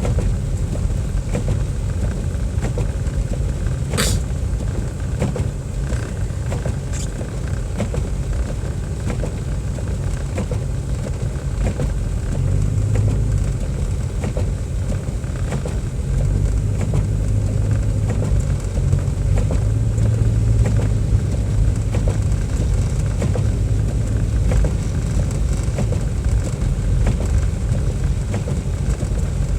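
Car engine and road noise while driving: a steady low rumble whose engine hum rises and falls a few times, with one sharp click about four seconds in.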